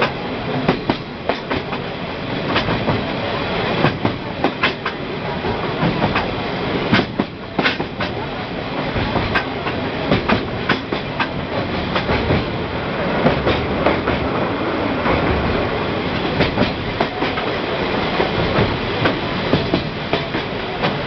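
Sagano Scenic Railway sightseeing train running along the track: a steady rumble of the cars in motion with irregular sharp clicks of the wheels passing over rail joints.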